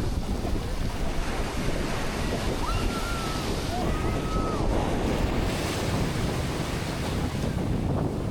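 Ocean surf washing onto the shore, with wind buffeting the microphone. A few brief, thin high calls come through about three to four seconds in.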